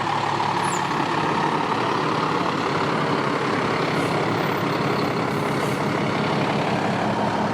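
Heavy diesel engine running steadily, a continuous drone without changes in speed.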